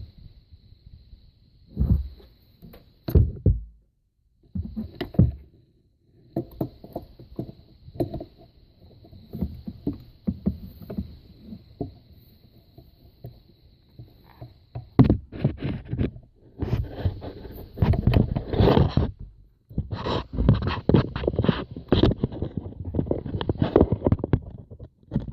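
Irregular knocks, scrapes and rustles of hand work in a car's engine bay, as a serpentine belt is fitted with an adjustable wrench, over a faint steady high-pitched whine.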